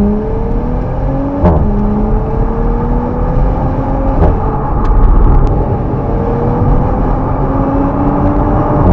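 Audi S5's 3.0-litre turbocharged V6 accelerating hard through the gears: the engine note climbs steadily, then drops sharply at upshifts about one and a half seconds and about four seconds in, and again at the very end.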